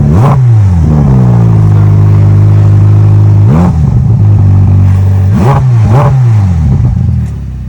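Ferrari F8's twin-turbocharged V8 being revved: a quick blip of the throttle just after the start, a steady raised note, then three more quick blips, dropping back to a lower idle near the end. Very loud.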